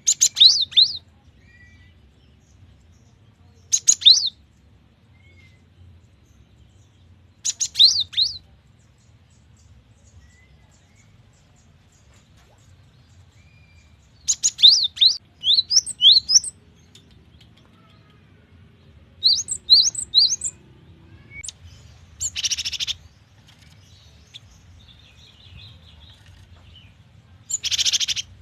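Cinereous tit (gelatik batu) singing in short bursts of quick, high, sliding notes every few seconds. Near the end come two harsher, noisier calls.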